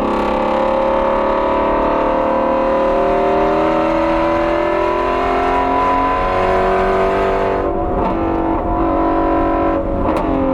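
Ford Shelby GT350R's 5.2-litre flat-plane-crank V8 pulling hard under load, its pitch rising steadily for about seven and a half seconds. The pitch then breaks off and drops, with another change near the end.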